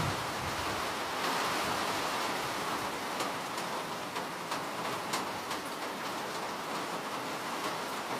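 Steady rain falling: an even hiss, with scattered sharper drop ticks about halfway through.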